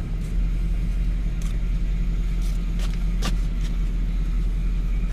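1995 Lexus SC400's V8 engine idling steadily, heard from inside the car, with a few light clicks over it.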